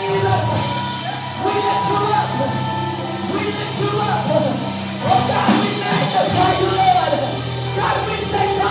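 Live gospel worship music from a church band, with held bass notes and chords under voices singing.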